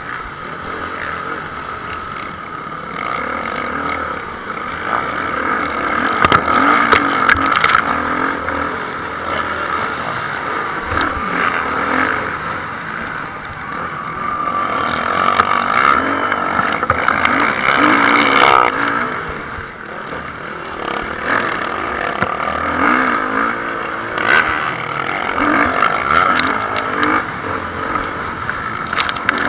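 Motocross bikes racing, engines revving up and down; the sound swells louder several times as bikes pass, around six to eight, fifteen to eighteen and twenty-five seconds in.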